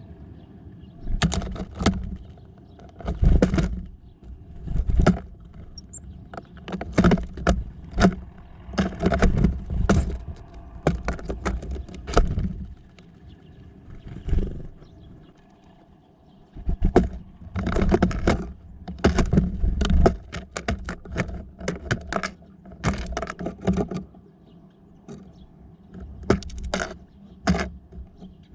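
Small birds at a feeder pecking, hopping and scratching, giving irregular runs of sharp taps and clicks with low thumps and scraping, broken by short quieter gaps.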